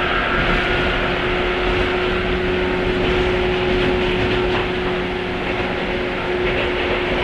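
103-series electric train motor car running, heard from inside the car: the MT55 traction motors and gears give a steady hum over the rumble of wheels on rail, holding one pitch at a constant speed.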